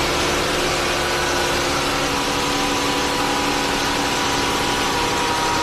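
Dodge Charger engine idling steadily, just brought back to life by a portable lithium jump starter after refusing to start.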